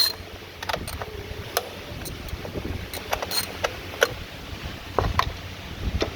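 Scattered sharp clicks and knocks as the ignition coil wiring connectors are unplugged and handled on a car engine, over a low steady rumble.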